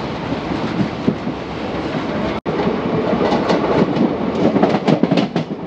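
Passenger train coach running at speed: a steady rumble of wheels on the track with clickety-clack over the rail joints, the clatter getting busier in the second half. The sound cuts out for an instant about halfway through.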